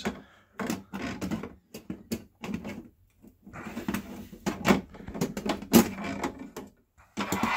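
Metal clicking and knocking of a replacement oven door hinge being worked into its slot: a run of irregular short knocks, the sound of a fiddly fit.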